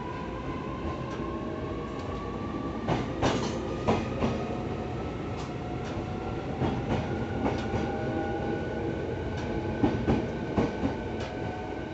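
EV-E301 series battery train's Mitsubishi IGBT inverter and traction motors whining, the tones rising steadily in pitch as the train accelerates. The wheels click over rail joints several times.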